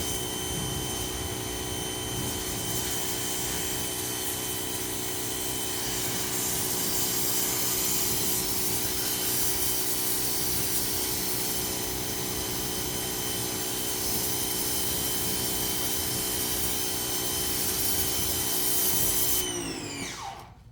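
Ryobi 2000 psi pressure washer running steadily, then switched off about a second before the end, its pitch falling as the motor winds down.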